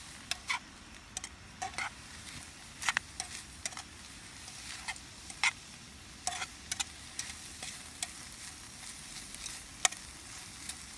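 Block bacon sizzling over a wood campfire: a steady soft hiss with sharp pops and crackles scattered irregularly through it.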